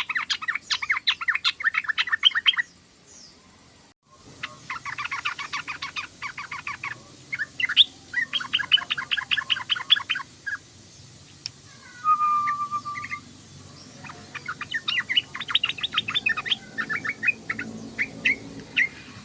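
Yellow-vented bulbul chattering in fast runs of short notes, in several bursts with short pauses between, and one held whistled note about two-thirds of the way through.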